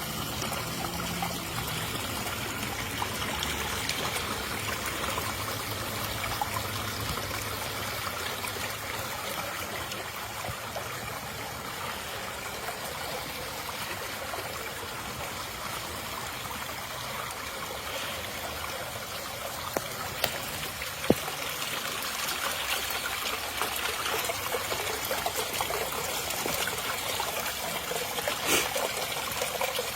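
Water trickling and running steadily over rocks in a small rock-lined creek bed, with a few brief clicks in the second half.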